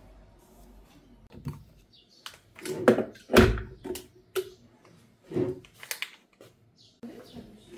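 A run of about eight knocks and thumps, like a door or objects being knocked about in a small room, with the loudest about three and a half seconds in.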